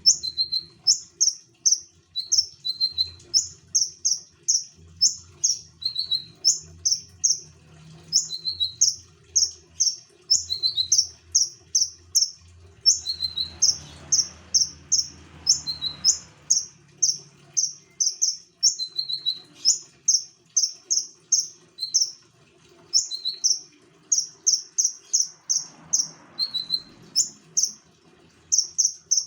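A konin songbird singing in full voice: a rapid, unbroken string of short high-pitched notes, several a second, with a lower note slipped in now and then.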